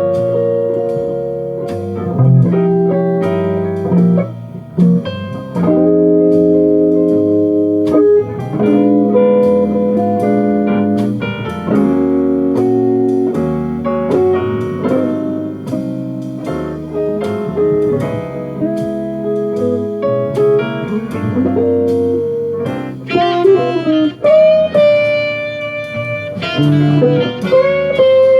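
Instrumental jazz with a plucked guitar prominent, playing chords and melody lines.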